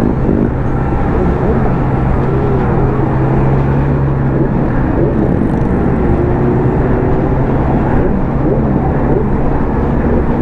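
Motor vehicle engine running with a steady, loud note, and other shorter sounds rising and falling in pitch over it.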